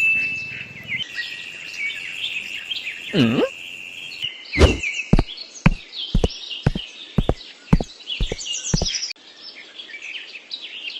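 Small birds chirping throughout, with a run of about nine sharp knocks, roughly two a second, through the middle.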